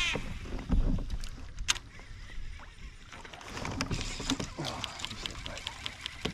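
Water splashing and short knocks and clicks around a kayak, with wind rumbling on the microphone.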